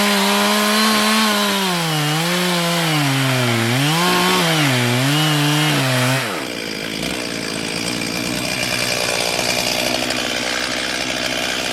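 Chainsaw cutting through a tree stump, its engine speed rising and falling as the chain loads in the cut. About six seconds in, the high engine note drops away abruptly to a lower, rougher run.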